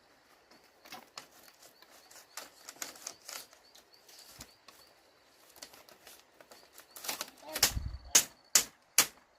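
Faint scattered clicks and rustling, then near the end a run of loud sharp knocks, about two a second.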